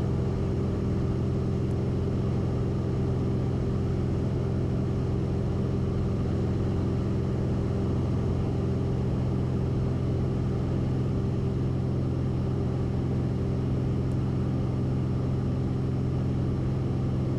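Steady drone of a Cessna 172RG's piston engine and propeller in flight, holding an even pitch and level.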